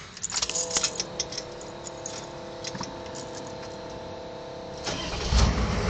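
Keys jangling and clicking in the ignition, then a steady whine, and near the end the GM IDI diesel V8 turns over and starts.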